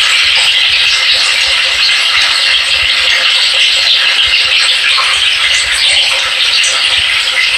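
Washing machine running: a steady, loud rushing hiss with faint scattered ticks.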